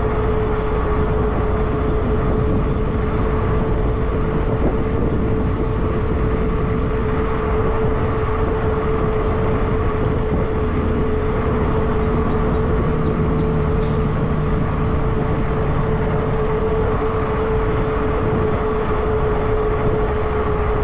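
Riding noise from a fat tire e-bike at steady speed: wind rushing over the camera microphone and tyres rolling on the trail, with a steady whine from the electric motor that holds one pitch.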